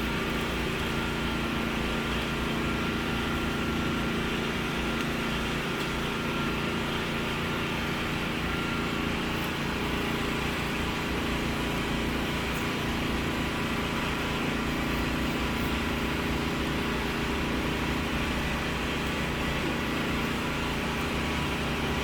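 A small engine running steadily: a constant, even hum that does not change.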